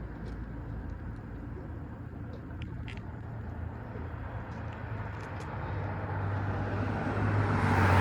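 A motor vehicle's engine running with a low rumble, growing steadily louder as it approaches, with a few faint short high clicks in the first half.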